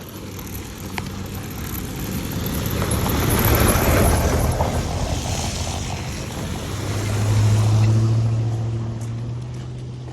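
Motor vehicles driving past close by, one after another: a noisy swell that peaks about four seconds in, then a second pass near eight seconds with a steady low engine drone.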